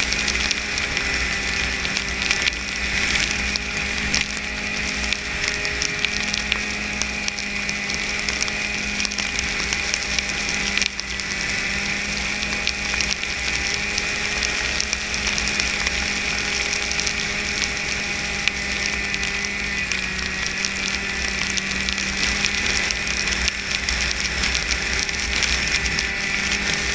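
Snowmobile running steadily under way, its engine holding a near-constant pitch over a continuous rattling clatter from the drive and track.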